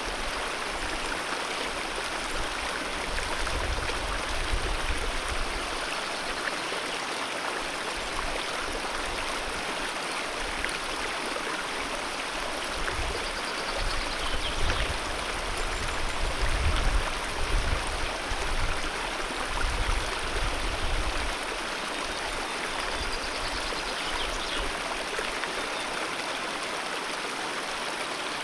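Alpine mountain river flowing, a steady rushing of water. Bouts of deep rumble come and go, loudest in the middle.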